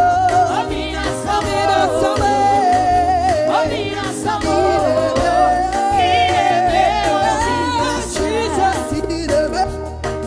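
Gospel praise music: a lead singer holds and bends long notes with melodic runs over a band with a pulsing bass.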